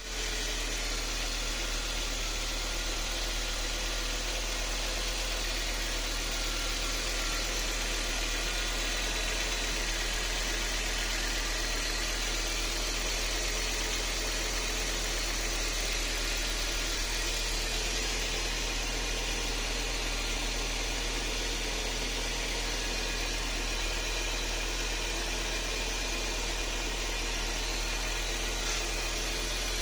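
Audi RS2's freshly rebuilt turbocharged inline five-cylinder engine idling steadily.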